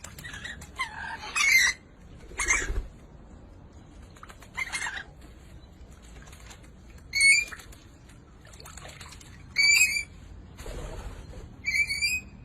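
Birds calling: a few rough, noisy calls at first, then short, clear, pitched calls repeated about every two seconds.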